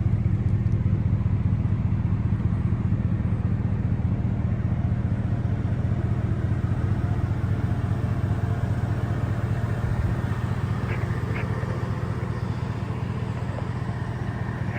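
Supercharged 6.0-litre V8 of a Chevrolet Avalanche idling steadily, growing a little fainter near the end.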